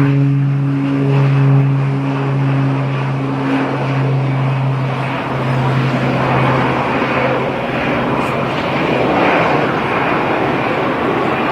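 A propeller airplane's engines drone steadily, then fade away about five seconds in, leaving a loud, even rushing noise that swells again around nine seconds in.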